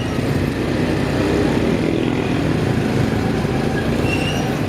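Motorcycle engine running steadily as the bike rides along a street.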